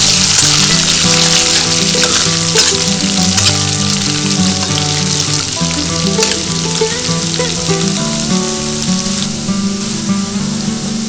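Spice paste and whole spices sizzling in hot oil in a steel wok, stirred with a metal spatula, with background music.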